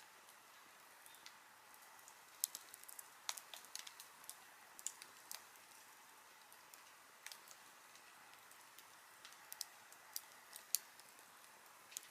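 Wood campfire crackling: sharp, irregular pops and snaps over a faint, steady hiss, coming in two clusters, a couple of seconds in and again near the end.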